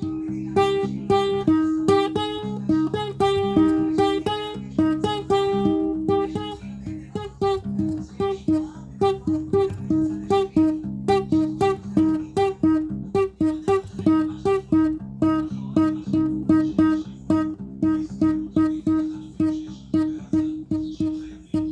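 Acoustic guitar music: a solo piece of fast plucked notes over held low notes.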